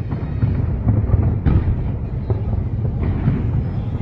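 Fireworks booming with a steady low rumble, a few bangs standing out at the start, about a second and a half in, and around three seconds in.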